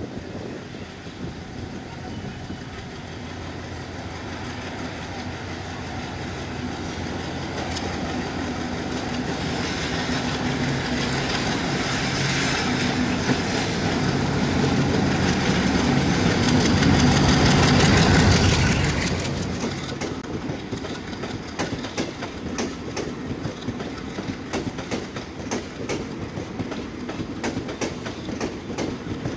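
Bangladesh Railway diesel locomotive running as it approaches and passes close by, its engine getting steadily louder to a peak about eighteen seconds in, then falling away. After that the long rake of parcel vans rolls past, wheels clicking rapidly over the rail joints.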